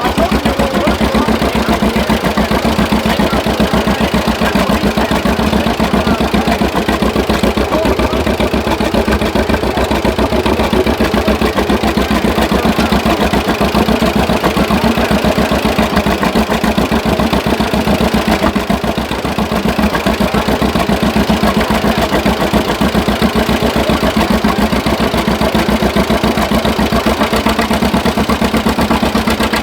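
Antique tractor engine running hard and steady under load during a pull in second gear, with a fast, even firing beat. It eases off briefly about two-thirds of the way through, then picks back up.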